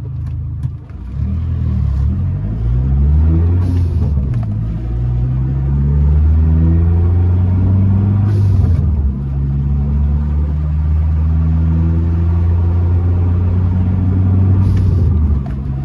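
Turbocharged four-cylinder of a 2004 Dodge Neon SRT-4, fitted with a BorgWarner turbo and running on E85, heard from inside the cabin accelerating through the gears at low-to-mid boost during tuning. The engine note climbs and then drops at gear changes about four, nine and fifteen seconds in. Each change has a short high hiss just before it.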